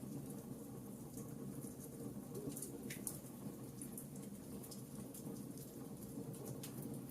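Campfire crackling: frequent small sharp snaps and ticks scattered over a steady low rush of burning wood.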